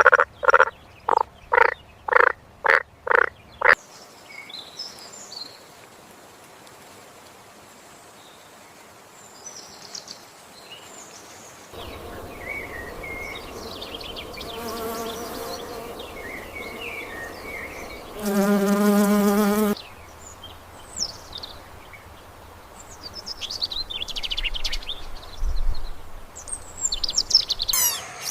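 Frog croaking in quick regular pulses, about two a second, stopping about four seconds in. Later come faint chirps and then a steady insect buzz lasting about a second and a half, the loudest sound after the croaks. Bird chirps follow near the end.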